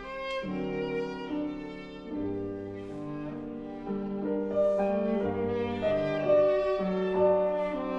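Viola playing a slow line of long held notes, with piano accompaniment; the playing grows louder about halfway through.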